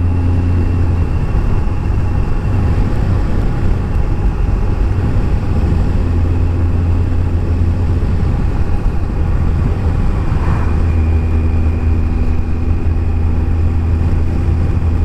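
Kawasaki ZZR 1400's inline-four engine running at a steady cruise, a constant low drone mixed with wind and road noise.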